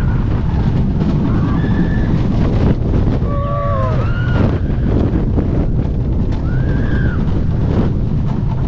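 Wooden roller coaster train running on its track with a steady low rumble, heavy wind buffeting the microphone. Riders yell several times, short rising-and-falling cries.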